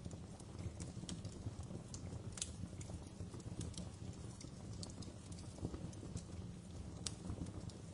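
Fire burning in a fireplace: a steady low rumble with irregular sharp crackles and pops, several a second.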